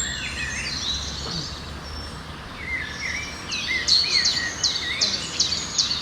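Songbirds calling and chirping over a steady background hiss; about halfway through, one bird starts a repeated series of sharp, high, falling notes, about two a second.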